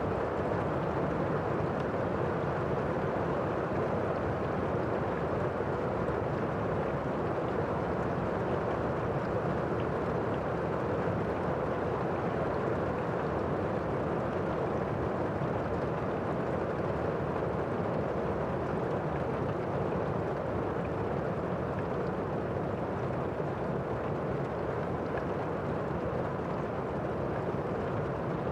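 Steady rain falling, an even, dull rush with no let-up.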